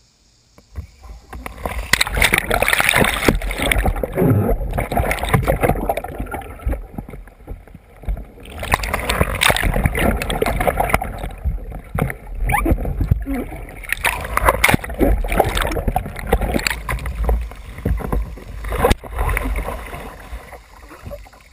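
Water splashing and sloshing around a kayak as it is rolled, in loud, uneven spells with short lulls.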